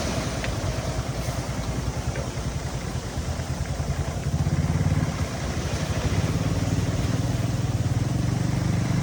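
Diesel engine of heavy earthmoving equipment running with a low, pulsing rumble. It grows louder about four seconds in, as if working harder.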